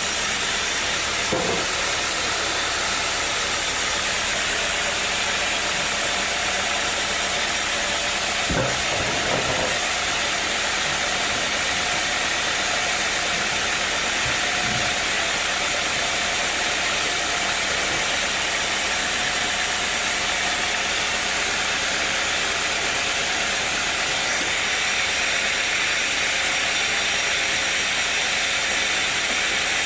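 Sawmill machinery running steadily, an even hissing mechanical noise.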